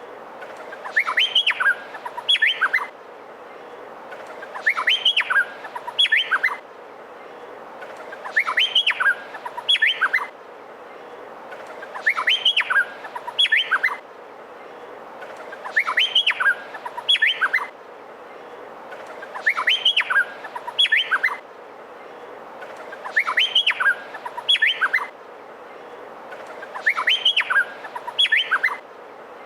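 Male Meliphaga honeyeater (cucak pantai) singing the same short phrase of quick, rising and falling whistled notes over and over, about once every four seconds, over a steady low hiss.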